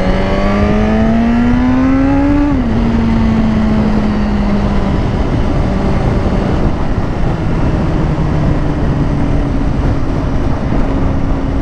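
Suzuki GSX-R sportbike engine pulling hard with rising revs, then an upshift about two and a half seconds in drops the pitch sharply, after which it cruises at steady revs under heavy wind rush. The engine is not yet fully warmed up.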